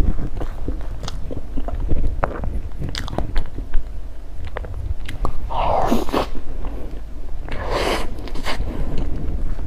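Close-miked chewing and biting of food, with many short crunches and mouth clicks. Two longer noisy sounds come about six and eight seconds in.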